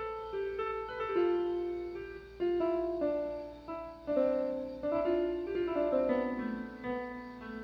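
Piano music: a flowing melody over chords, each note struck and then fading.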